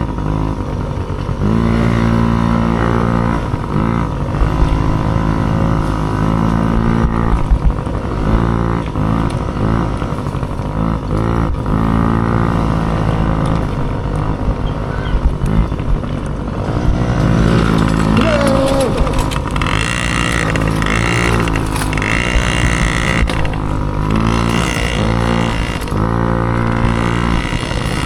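Dirt bike engine revving up and down over and over as it is ridden, the pitch climbing and dropping every second or two.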